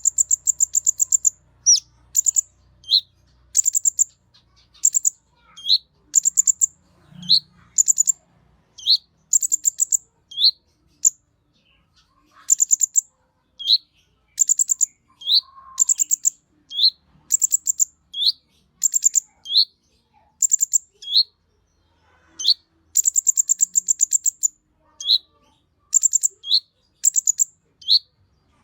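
Konin (brown-throated sunbird) singing: a quick high-pitched trill followed by a short rising note, repeated about once a second with a couple of brief pauses.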